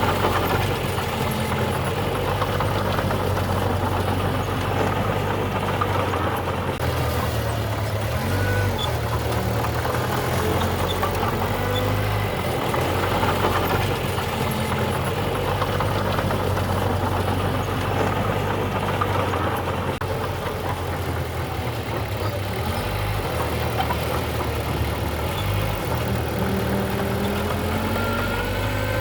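Small bulldozer's diesel engine running under work, its low note stepping up and down every few seconds as the load changes, with faint short squeaks.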